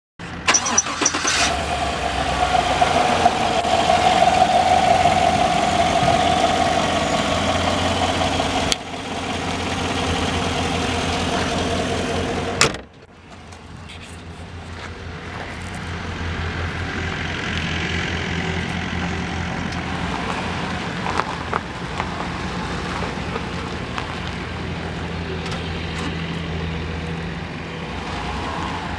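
A 2017 GMC Sierra 1500 pickup's engine starting and running. A sharp knock comes about thirteen seconds in, after which the running sound is quieter and steadier.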